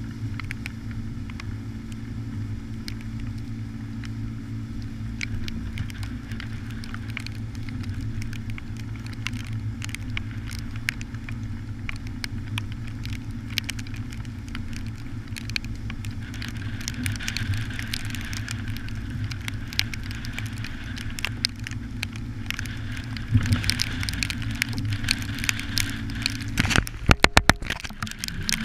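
An engine running steadily with a low hum, under a continual crackle of scattered sharp ticks. A quick cluster of loud knocks comes near the end.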